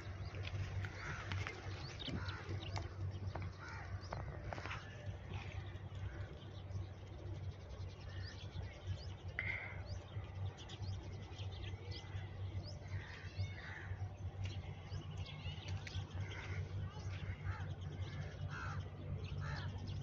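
Birds calling over and over in short separate calls, over a steady low rumble.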